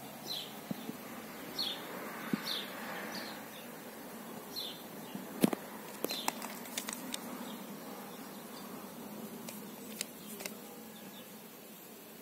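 A small bird calls outdoors with about six short, high chirps, each falling in pitch, over the first six seconds. A few sharp clicks and knocks come from a cordless screwdriver being handled on a stone slab; the loudest is about five and a half seconds in.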